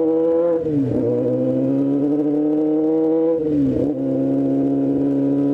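Honda CBR600's inline-four engine running steadily under the rider, its pitch dipping briefly about half a second in and again around three and a half seconds in, then settling back.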